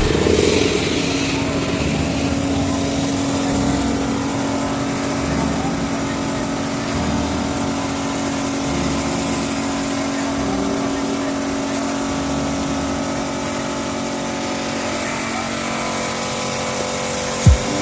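A machine running steadily, a constant hum with a hiss over it.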